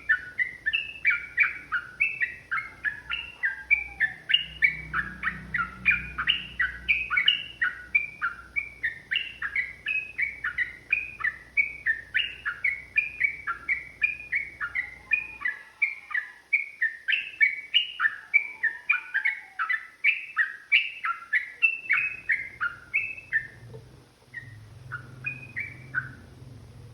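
Yellow-vented bulbul (trucukan) singing a long, fast run of short chirping notes, several a second, without a break. Near the end the run thins to a few scattered notes and stops.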